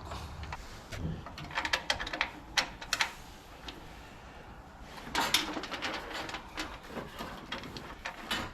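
Irregular metal clicks and knocks of bolts and a top bracket being worked into place on the Jeep's body, in two busy spells separated by a quieter stretch.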